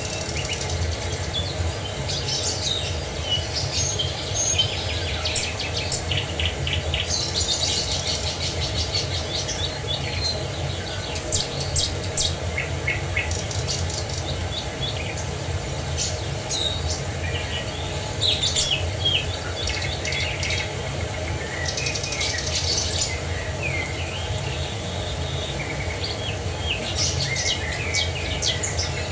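Several songbirds chirping and singing in short calls and rapid trills, over a steady low rush of falling water.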